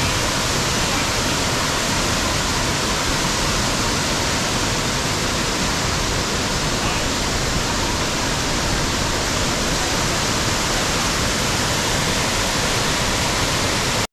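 Waterfall: falling water making a loud, steady, even rush of noise with no breaks.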